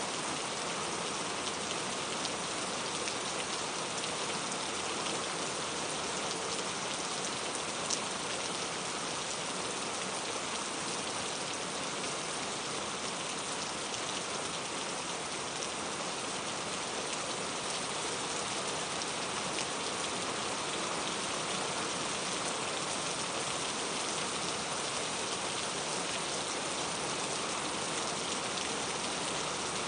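Steady rain falling and pattering on a surface, with one brief sharper drop or tick about eight seconds in.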